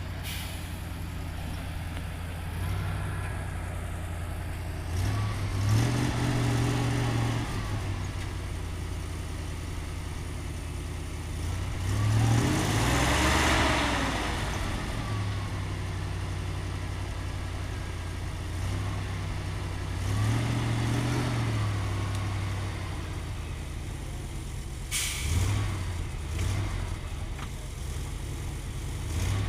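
ZIL-131 army truck's V8 petrol engine running and revving up and back down four times, the longest and loudest rev in the middle. A sharp noise cuts in at the start and again about 25 seconds in.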